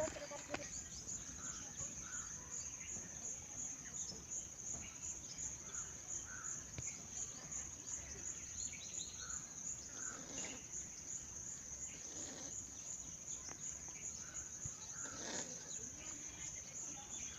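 Insects chirping in a steady, evenly pulsed high trill, with faint bird calls here and there.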